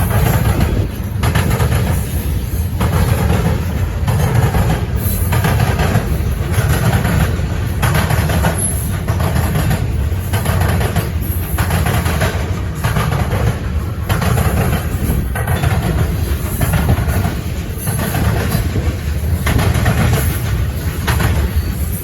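Freight cars of a potash train rolling past, their wheels clacking over rail joints in a regular rhythm, about one beat a second, over a steady low rumble.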